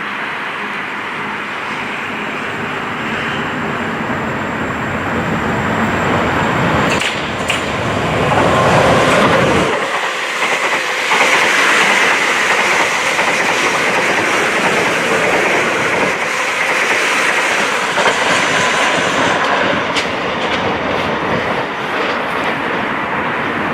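A train passing close by on the railway, its sound building over the first several seconds and staying loud through most of the rest, with a few sharp clicks along the way.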